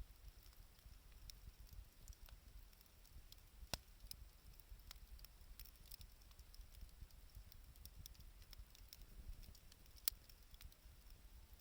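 Wood bonfire crackling faintly: scattered small irregular pops, with two sharper snaps about four and ten seconds in, over a low rumble.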